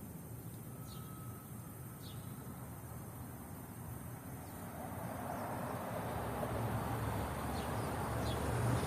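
Outdoor background with a few faint, short bird chirps, four in all, over a low rushing rumble that grows steadily louder through the second half.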